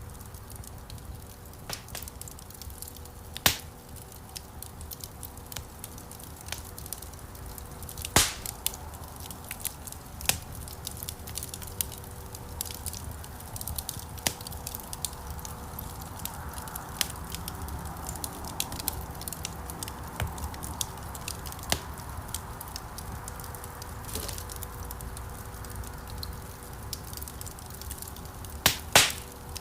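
Wood logs burning in a fireplace: scattered crackles and sharp pops over a low, steady rumble of flame. The loudest pops come about 3½ and 8 seconds in, with a quick pair near the end.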